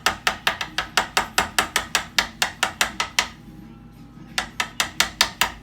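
Rapid repeated tapping on a muffin pan, about five sharp taps a second, in two runs with a pause of about a second between them.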